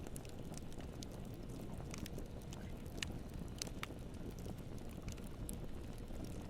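Campfire burning, with irregular sharp crackles and pops of the wood over a steady low rumble; a few louder pops come about three to four seconds in.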